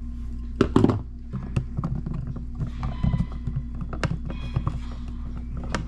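Scattered light clicks and knocks of hands handling electrical parts and tools while wiring a receptacle, with a louder clatter just under a second in, over a steady low hum.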